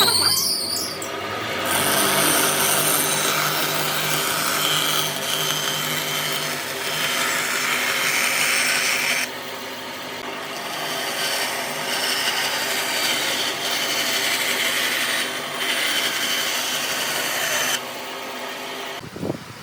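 Electric power tool working on wood: a steady motor hum with a rough rubbing, rasping noise over it. The rasping thins out about nine seconds in, and the tool stops just before the end.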